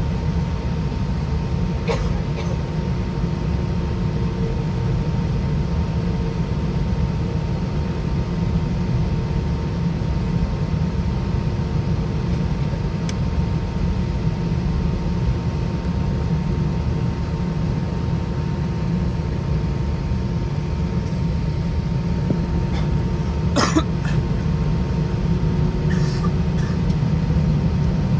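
Steady low drone inside the cabin of an Airbus A320-200 with IAE V2500 turbofan engines under power, with faint steady engine tones over the roar. A short cough-like sound from a passenger near the end.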